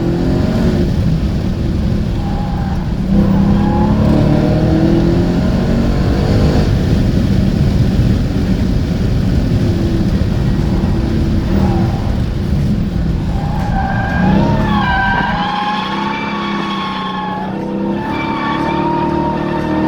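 Dodge Hellcat's supercharged 6.2-litre V8 running hard under throttle. From about two-thirds of the way in, the tires squeal in long, wavering screeches as the car slides.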